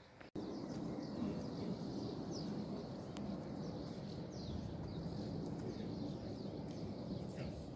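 Birds chirping in short, falling calls over a steady rushing background noise.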